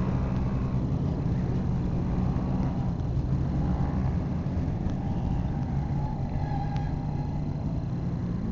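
Motor vehicle engine running steadily at a low, even pitch, with no revving or impacts.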